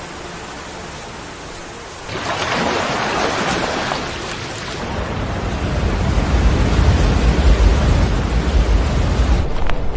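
A steady rushing noise like heavy rain sets in about two seconds in. From about five seconds on a deep rumble builds under it, like thunder, and it eases just before the end.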